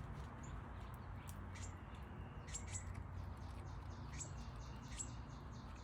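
Small birds at a backyard feeder giving short, high chirps, a few at a time, over a steady low background rumble.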